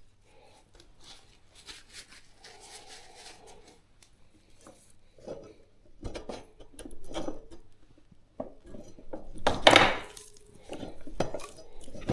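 Metal parts clinking and knocking as the greased front axle and wheel spacers are worked back into a motorcycle's front wheel and forks. The clinks are light and scattered at first, busier in the second half, with a louder knock near the end.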